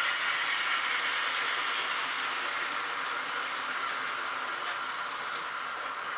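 H0-scale model trains running on the layout: a steady whirring of small electric motors and wheels rolling on the rails, easing slightly toward the end.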